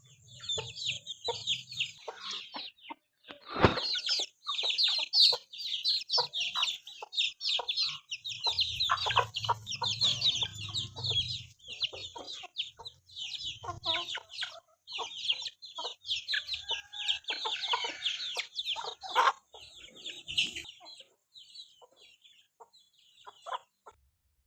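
Chickens clucking, with a dense, continuous chorus of short high-pitched chirps and peeps over the clucks. A single sharp knock comes about three and a half seconds in, and the calling thins out near the end.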